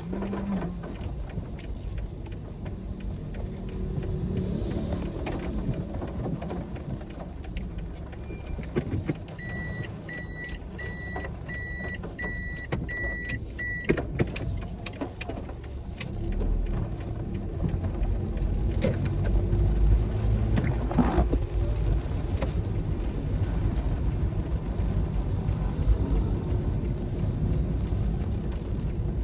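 Car driving with a steady low engine and road rumble. Partway through, a run of about eight short electronic beeps comes at about two a second for roughly four seconds.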